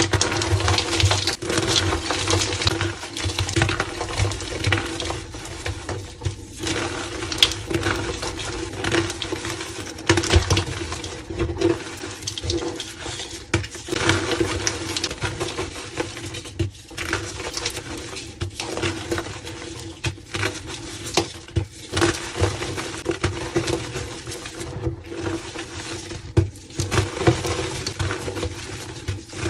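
Soft reformed gym chalk being crushed and crumbled, a continuous run of dry, dusty crackling and small uneven crunches, over a steady low hum.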